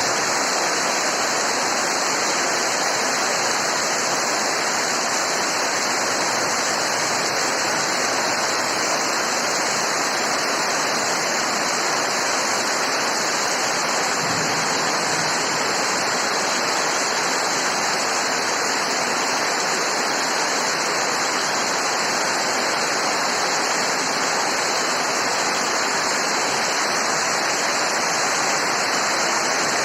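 Steady heavy rainfall: a dense, even hiss with no separate drops standing out.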